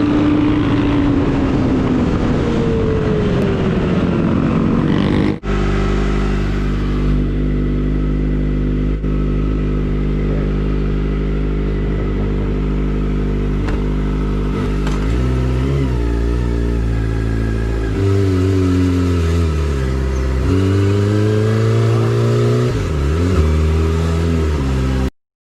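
Kawasaki ZX-25R's 249 cc inline-four engine running: its pitch falls and climbs again, breaks off for an instant about five seconds in, holds steady for around ten seconds, then revs up and down several times before cutting off abruptly near the end.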